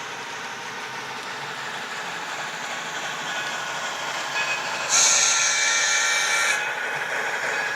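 Sound-equipped HO-scale model steam locomotive running with a steady rumble. About five seconds in, a loud blast of steam hiss with a whistle tone sounds for about a second and a half.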